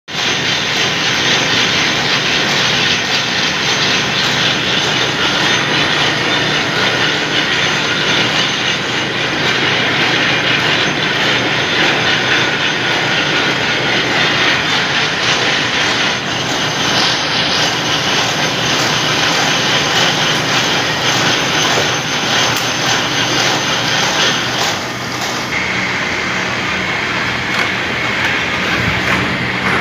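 CTC (crush, tear, curl) roller machines in a tea factory running: a loud, steady mechanical din with a constant hum underneath. About 25 seconds in, the sound dips briefly and settles into a slightly different steady tone.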